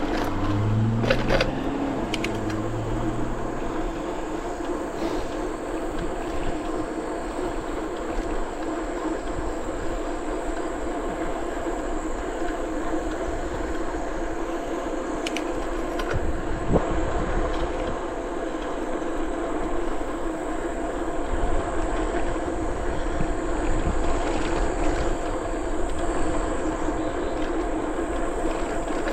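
Bicycle rolling steadily along a trail: continuous tyre and drivetrain hum. A few brief low tones and clicks sound in the first few seconds.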